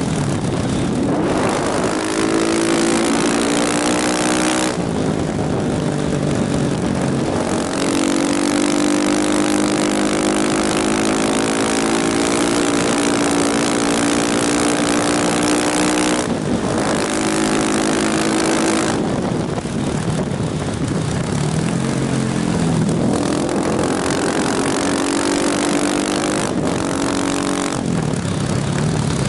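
KTM motorcycle engine under way, its pitch climbing under throttle and dropping several times as it shifts gear or closes the throttle, under a heavy rush of wind noise.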